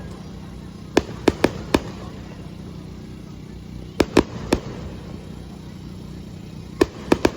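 Aerial fireworks bursting: sharp bangs in three quick clusters of three or four, a few seconds apart, over a steady low background hum.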